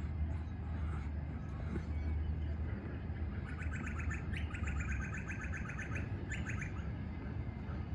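A bird calling a fast run of short, rapidly repeated chirping notes for about three seconds, starting about three and a half seconds in, over a steady low rumble.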